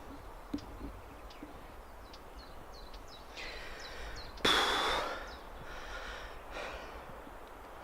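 A hiker breathing hard on a steep uphill climb, with a loud, heavy breath out about halfway through.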